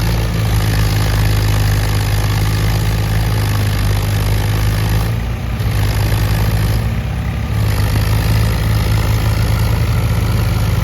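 Tractor diesel engine running steadily and loudly, its low drone holding with small changes in texture partway through.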